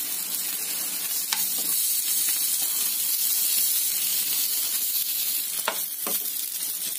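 Vegetable-stuffed chapathi rolls sizzling steadily in oil in a non-stick pan over a medium flame. A few light clicks of a steel spoon against the pan come about a second in and twice near the end as the rolls are turned.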